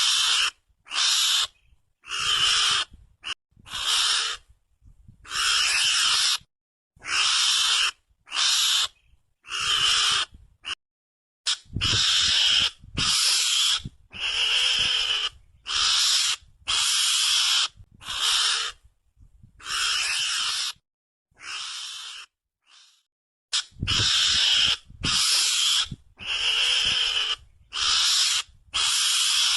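Mongoose (garangan) lure call: a rapid string of about twenty short, hissing, chattering bursts, each under a second long with brief gaps between them.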